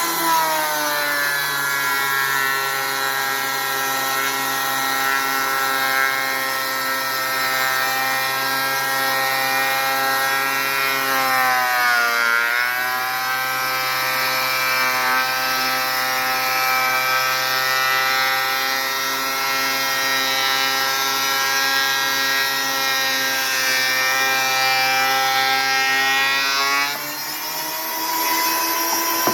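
Thickness planer motor running under load as a rough-sawn board feeds through. Its pitch drops as the cut starts, sags deeper about twelve seconds in, then rises back to free-running speed near the end as the board clears.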